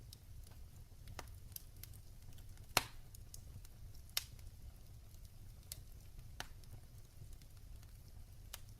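Wood fire crackling in a fireplace: irregular sharp pops and snaps over a low steady rumble of the flames, with the loudest pop just under three seconds in and another a little after four seconds.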